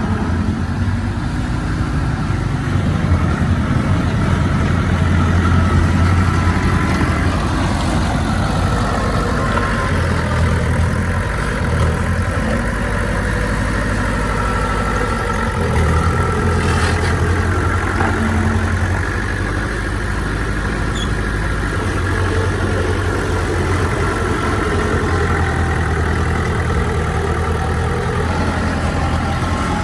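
Heavy diesel engines of earthmoving machinery (a bulldozer and dump trucks filling land) running continuously, their low rumble rising and easing as the load changes.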